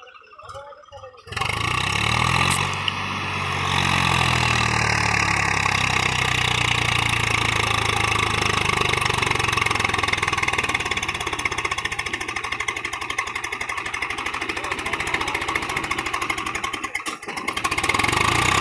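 Swaraj 735 FE tractor's three-cylinder diesel engine running steadily. It comes in suddenly about a second in.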